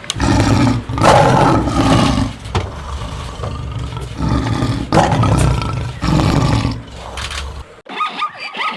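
A big cat roaring: four loud, low, grating roars, each about a second long. Shortly before the end it cuts to a different animal's thinner, higher yelping calls.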